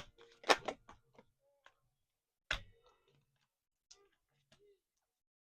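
A few short, sharp clicks and taps: a quick cluster about half a second in, a single louder click about two and a half seconds in, and a couple of faint ticks near the end.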